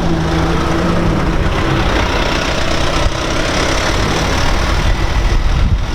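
Car engine running: a steady engine note fades within the first second or two, leaving a low, rough engine rumble that grows a little louder near the end.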